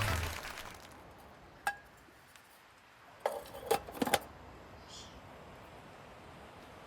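Light clinks of camp cookware being handled: one ringing clink about two seconds in, then a quick cluster of clinks a second or so later. Background music fades out at the start.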